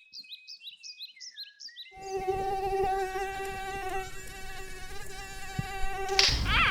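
A run of quick, high, falling chirps over a steady whistle for about two seconds, then a steady insect buzz, as of a fly or mosquito in flight, for about four seconds, cutting off abruptly.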